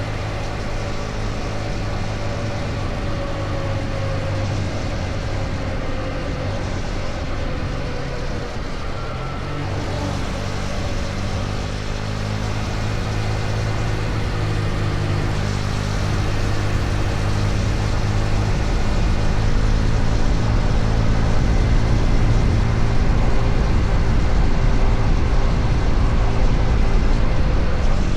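KTM Duke 250's single-cylinder four-stroke engine running at road speed under dense wind and road noise. Its note sinks slowly over the first several seconds and changes about ten seconds in, then the sound grows louder over the following stretch.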